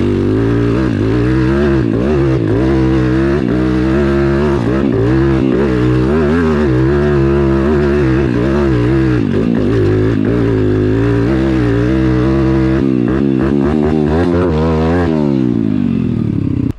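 Pit bike's single-cylinder four-stroke engine running hard on a trail, its pitch rising and falling with the throttle, then dropping steadily over the last two seconds as it slows.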